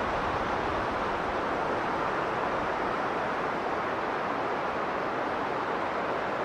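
Strong blizzard wind blowing as a steady, even rush with no separate gusts or breaks.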